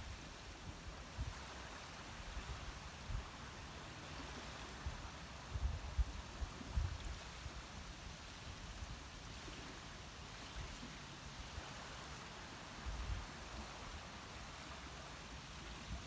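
Steady outdoor rushing noise, like running water or rain, with wind buffeting the microphone in irregular low gusts, strongest about six seconds in and again near thirteen seconds.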